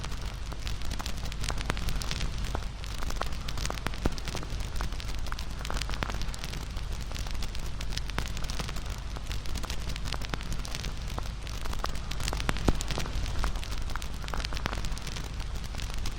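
Wood fire crackling: a steady hiss full of small pops and snaps, with a couple of louder snaps.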